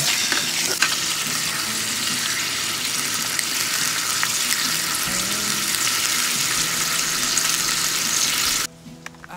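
Food sizzling steadily as it fries over high heat, a continuous crackling hiss that cuts off suddenly near the end. Soft background music plays faintly underneath.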